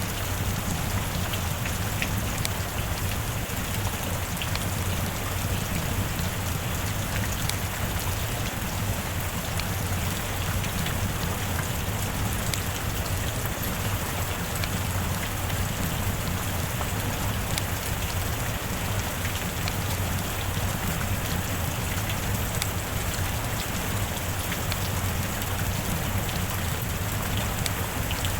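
Steady heavy rain, with scattered individual drop ticks.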